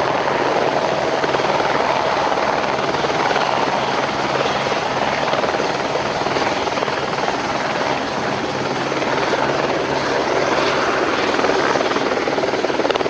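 Helicopter running steadily: a continuous loud whine and rotor chop with no change in pitch.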